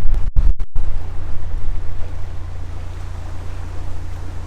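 Narrowboat's diesel engine running steadily at low revs, with wind buffeting the microphone. The sound cuts out briefly three times about half a second in.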